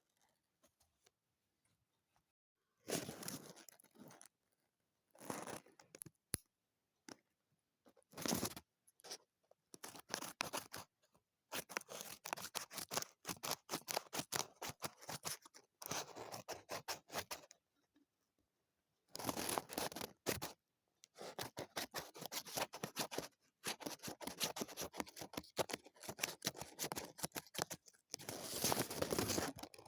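Scissors cutting paper: a few short bursts of snipping, then longer runs of close-set snips with brief pauses between them.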